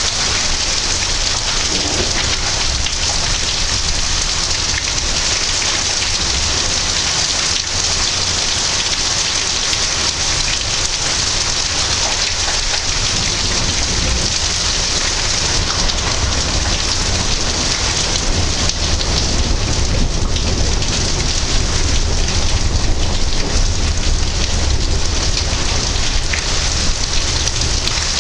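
Heavy thunderstorm rain pouring steadily, with a low rumble of thunder underneath that grows a little louder in the second half.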